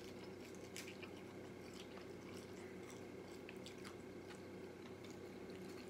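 Faint chewing and biting of fried chicken, with a few soft scattered clicks, over a steady low hum.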